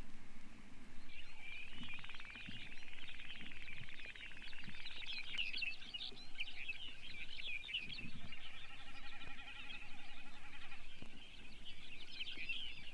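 Sharp-tailed sandpiper (Calidris acuminata) calling: dense, high chirping twitters, joined about eight seconds in by a lower buzzing trill.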